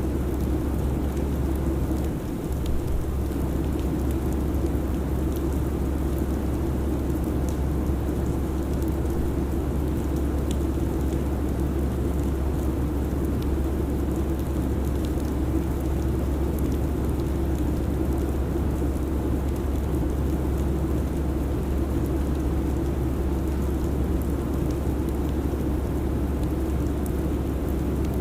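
Airliner cabin noise in cruise: a steady low rumble and hiss, with one brief dip about two seconds in.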